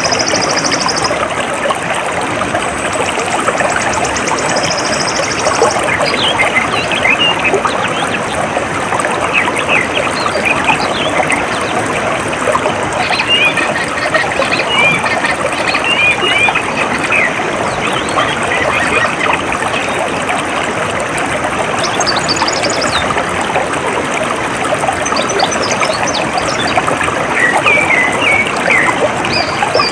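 Water trickling and flowing steadily, with birds chirping in short scattered calls over it. A high, rapid trill sounds during the first few seconds.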